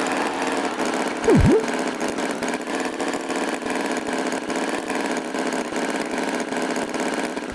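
Cartoon tractor engine sound running steadily with an even pulse. About a second and a half in, a short swooping effect dips in pitch and rises straight back up.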